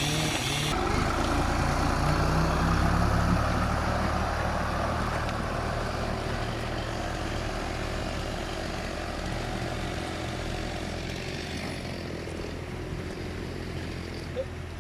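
New Holland TT75 tractor's diesel engine running steadily, loudest a few seconds in and then slowly fading. A single short click near the end.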